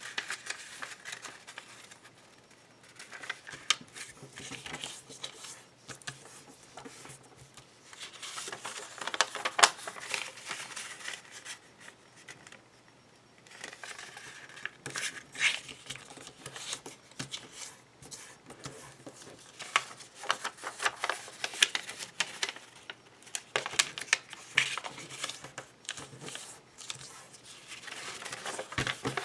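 A sheet of origami paper being handled and folded: crisp crinkling and rustling in bursts, with sharp snaps and clicks as creases are pressed, pausing briefly between folds.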